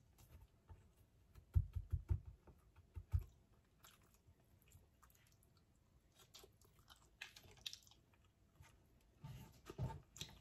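Close-miked eating sounds: a few soft low thumps about two seconds in, then wet chewing and mouth clicks on a handful of rice eaten with the fingers, loudest in two spells near the end.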